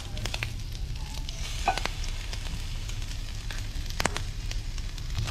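Squid rings sizzling steadily on a hot flat-top barbecue hotplate, with a few sharp clicks, the loudest about four seconds in.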